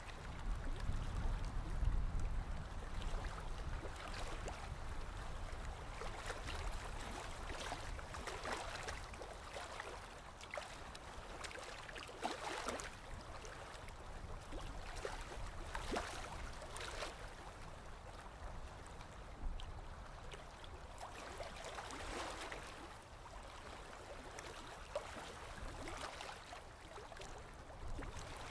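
Sea water lapping and splashing in small waves, with a splashy surge every few seconds over a steady wash. A low rumble is strongest in the first few seconds.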